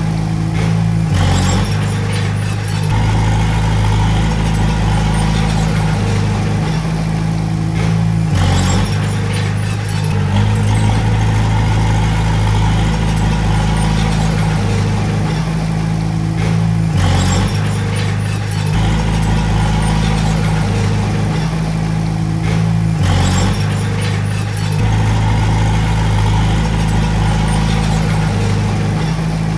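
Komatsu D20A bulldozer's diesel engine running hard. The engine note shifts up and down in a repeating cycle about every 7 to 8 seconds, with a brief clatter at each change, matching repeated push-and-reverse passes.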